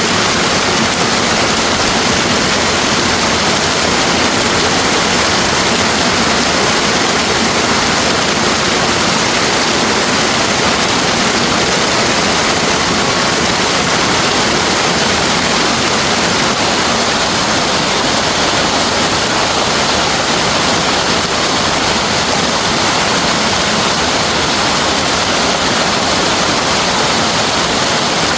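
Steady, loud rush of a waterfall, continuous falling water with no breaks.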